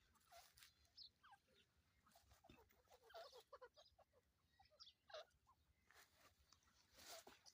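Faint soft chirps and clucking calls from a family of partridges (teetar), many short notes that slide in pitch, mixed with a few brief scratchy rustles.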